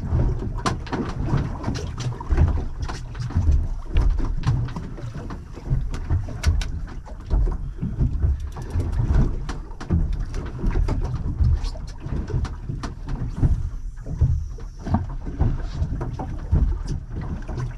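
Water sloshing against a small fishing boat, with wind buffeting the microphone in irregular low gusts and many scattered light knocks and clicks.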